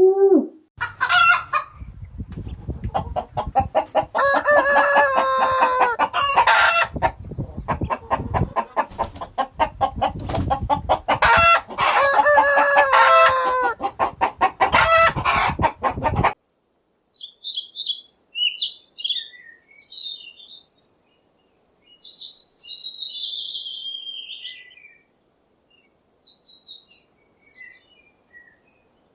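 Chickens: a rooster crowing twice amid hens clucking, then, after an abrupt cut, a small bird chirping in short high phrases.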